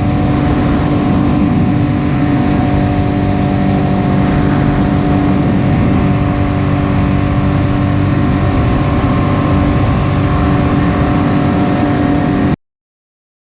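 A small boat's motor running steadily at cruising speed, with a steady engine hum and some water and wind noise. It cuts off abruptly near the end.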